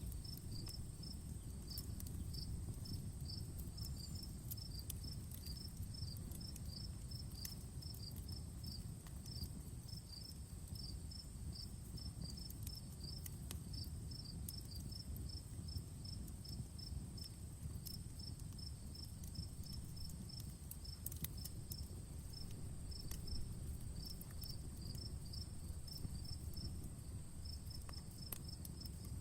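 Crickets chirping in quick, even runs of pulses over a steady high insect drone, while a campfire crackles with scattered sharp pops over a low, continuous rumble.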